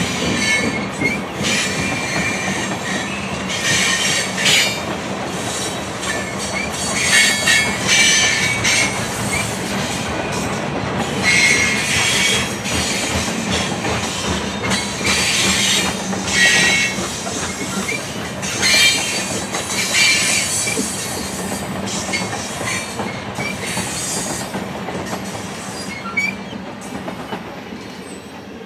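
Freight train tank cars rolling past on the rails, with a steady rumble and repeated bursts of high wheel squeal every few seconds. The sound fades near the end as the last car passes.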